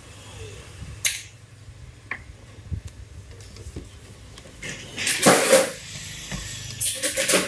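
Scattered clatters and rustles of objects being handled, over a steady low hum. The loudest comes about five seconds in, with a quick cluster near the end.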